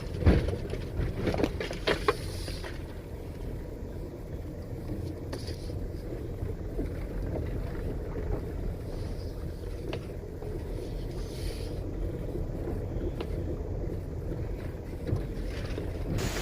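Four-wheel-drive SUV driving slowly on a gravel, potholed trail: a steady low rumble of engine and tyres, with a few knocks and bumps in the first couple of seconds.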